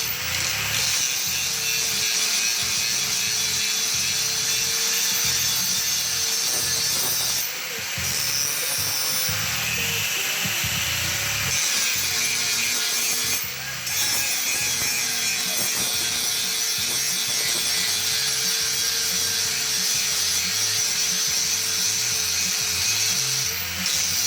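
Power grinder grinding steel: a steady hissing grind over the motor's tone, easing off the metal briefly twice.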